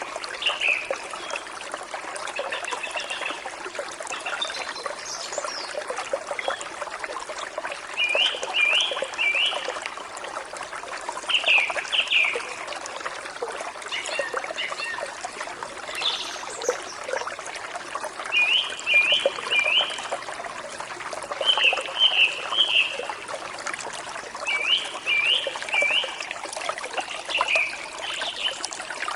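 Forest stream trickling and splashing steadily, with a songbird repeating a short phrase of three or four quick notes every few seconds.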